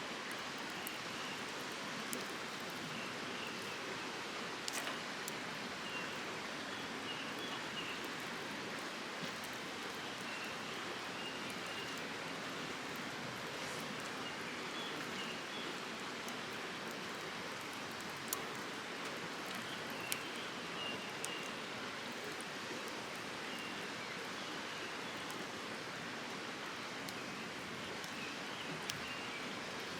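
Wood campfire crackling, with a few sharp pops over a steady rushing hiss.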